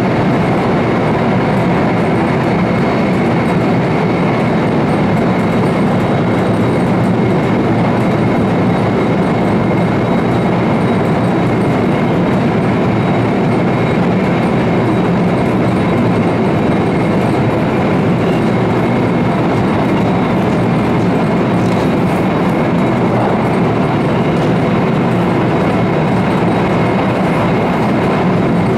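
Steady running noise of an E4 series double-deck Shinkansen at speed, heard inside the car's deck: an even rush and rumble of wheels, track and air, with a faint high whine held steady.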